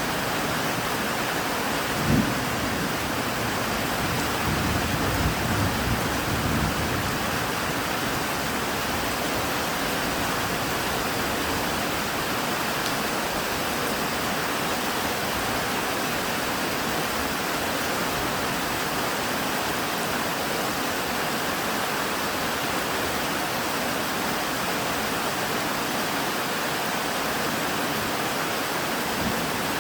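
Steady heavy rain, with a low rumble of thunder in the first several seconds: a sharp crack about two seconds in, then rolling rumbles that fade by about seven seconds.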